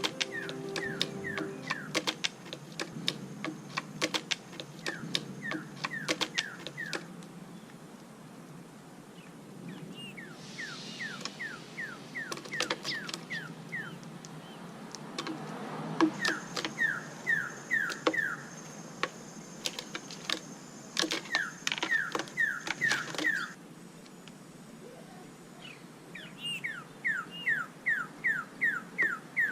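A bird calling in runs of short downward-slurred chirps, about four a second, each run lasting a few seconds, with sharp clicks between the runs.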